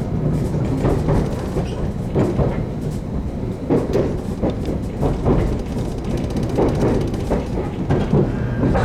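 A JR Kyushu 813 series electric train running on its rails, heard from inside the passenger car. There is a steady rumble with repeated wheel clatter over rail joints, and a quick run of clicks about two-thirds of the way through.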